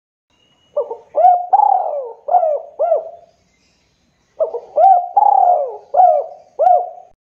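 Spotted dove cooing: two phrases of several rising-and-falling coos each, with a pause of about a second between them.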